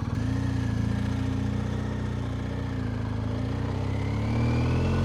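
Motorcycle engine idling steadily just after being started. Its note rises slowly and grows a little louder near the end.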